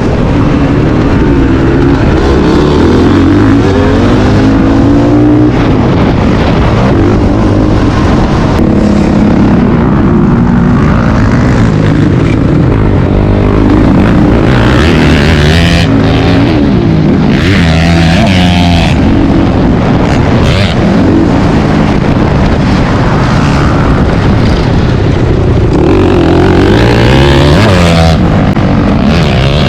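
Motocross dirt bike engine, loud and continuous, its pitch rising and falling over and over as the throttle is opened and closed and the gears change while it is ridden around the track.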